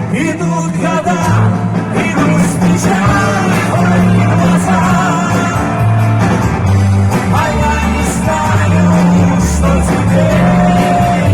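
Live vocal-instrumental band playing a rock-style song through a sound system, with a voice singing over a bass line that moves from note to note.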